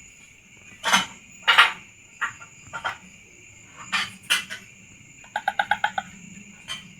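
Young dedes bird's calls played as a lure, the chick calling for its parent: several short sharp calls spaced about half a second to a second apart, then a quick trill of about seven notes near the end. A steady high buzz of insects runs underneath.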